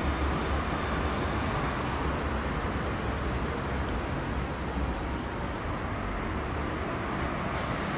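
Tram running along a city street amid road traffic: a steady low rumble and rolling noise that slowly fades.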